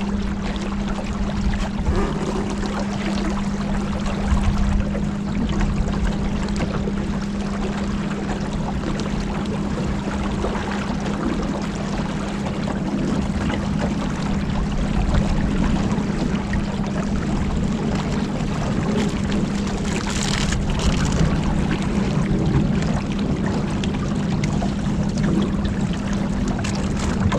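Motorboat engine running at a steady pitch while cruising, over a steady rush of water and wind. A brief louder hiss comes about twenty seconds in.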